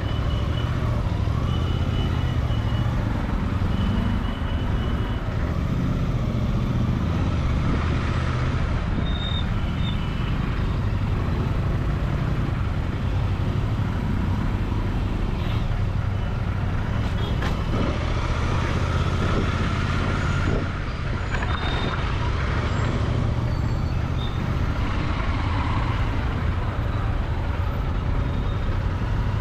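Royal Enfield Continental GT 650's parallel-twin engine and exhaust running steadily through a ride, with traffic noise around it. A few short high beeps sound in the first few seconds.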